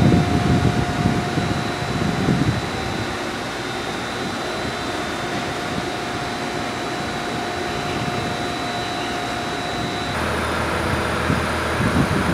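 HB-E300 hybrid diesel railcar standing with its onboard equipment running: a steady hum with a thin high whine, and some low rumbling in the first couple of seconds. About ten seconds in the sound changes abruptly: the whine stops and a lower hum takes over.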